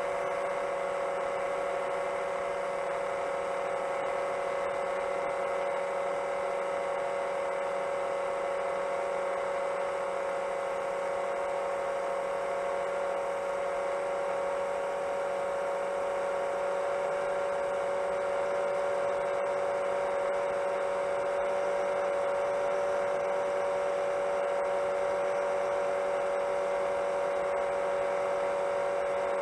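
7-inch FPV quadcopter's motors and propellers running at a steady cruise: an even, high-pitched whine with several steady overtones that hardly changes in pitch.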